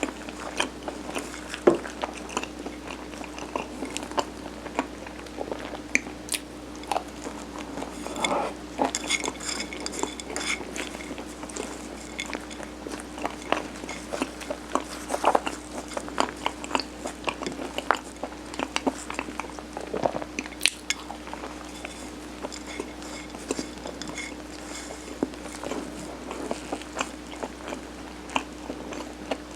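Close-miked chewing and biting of mung-bean sirutteok (steamed Korean rice cake), with irregular small clicks and taps of utensils against a dish, over a faint steady hum.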